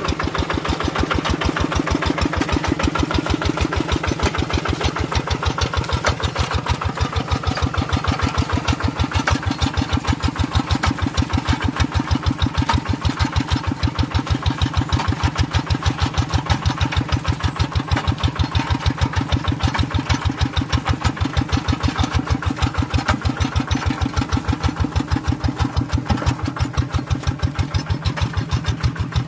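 Tractor engine running steadily with an even, regular chugging beat.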